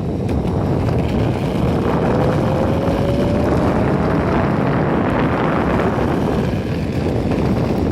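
Wind buffeting the phone's microphone over the rolling rumble of an Enertion Raptor 2 electric skateboard under way, with a faint whine rising slowly in pitch from about two seconds in.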